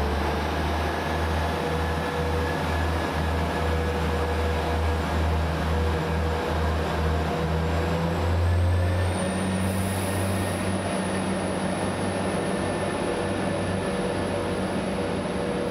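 Class 175 diesel multiple unit's Cummins diesel engines throbbing under power as the train pulls away from the platform. The low throb changes character about nine seconds in, and a faint high whine rises about eight seconds in.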